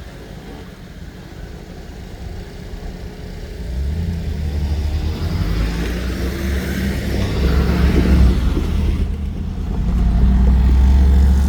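A vehicle's engine rumbling deep and low, getting louder about a third of the way in and peaking twice as it draws near and passes.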